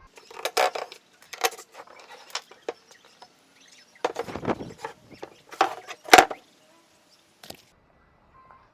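Irregular knocks and clattering, as of wooden parts being struck and handled, in clusters with the loudest knock about six seconds in.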